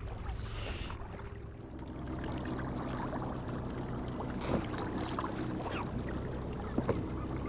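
Sea water lapping and trickling against a kayak hull, with small splashes, over a low steady hum.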